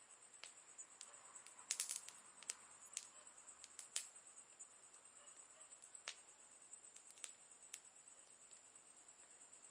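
Campfire crackling softly: scattered sharp pops and snaps, with a quick run of them about two seconds in.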